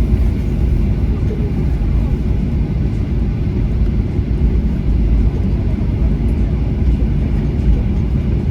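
Steady low rumble inside a jet airliner's cabin.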